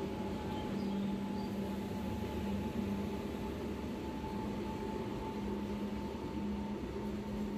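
Steady hum of a train at a railway platform: a low drone with a fainter, higher whine held above it.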